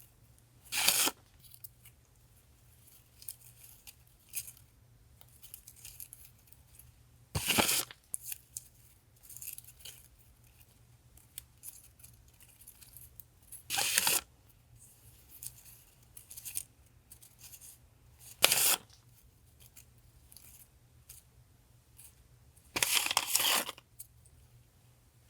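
Paper die-cuts and their packaging handled by hand: light rustling with five louder crinkling, tearing-like bursts a few seconds apart, the last lasting about a second.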